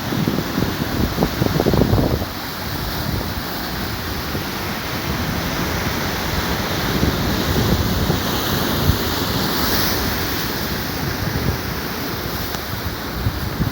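Sea surf breaking and washing steadily, with wind buffeting the microphone in low rumbling gusts, strongest in the first two seconds. A brighter rushing swell comes about two-thirds of the way through.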